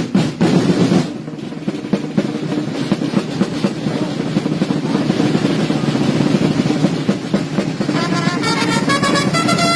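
Snare drums played in a continuous rapid roll by the Sartiglia drummers. About eight seconds in, held trumpet notes join above the drumming.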